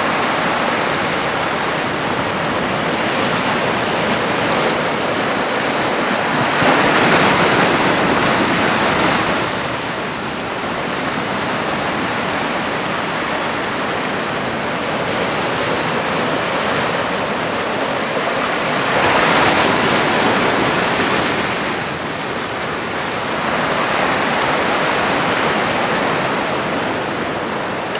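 Heavy typhoon-swell surf breaking close to shore: a continuous loud wash of water noise that swells louder twice, about a quarter of the way in and again about two-thirds through.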